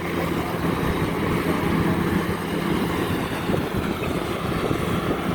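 Rice combine harvester's diesel engine running steadily under load, a continuous even drone.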